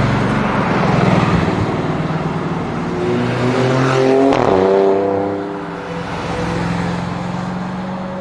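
High-performance car engine passing by: its pitch rises as it approaches, drops about four seconds in as it goes past, and the sound then fades a little.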